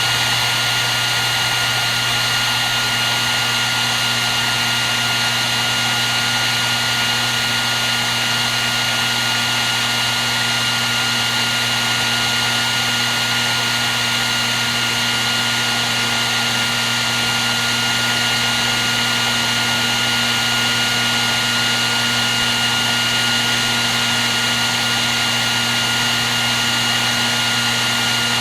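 Hair dryer running continuously: an even rush of blown air with a steady high whine from its motor and fan, unchanging throughout.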